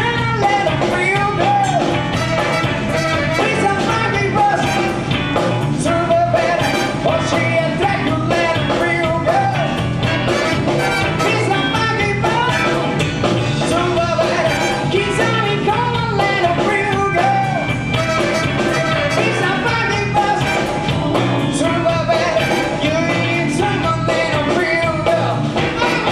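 Live band playing an up-tempo rock-and-roll number with singing over a steady drum beat.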